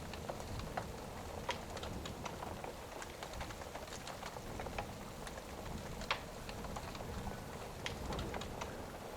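Wood fire crackling with irregular sharp pops over a steady hiss of pouring rain, with a low rumble underneath.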